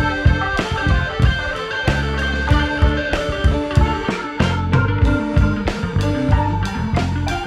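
Live band playing an instrumental passage: electric guitar over bass guitar and drum kit, with steady drum hits.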